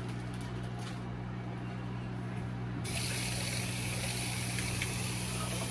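Kitchen sink tap turned on about halfway through, water running steadily into the sink over a steady low hum.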